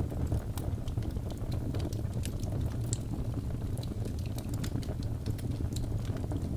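Wood logs burning in a fireplace: a steady low rush of flames with frequent sharp, irregular crackles and pops.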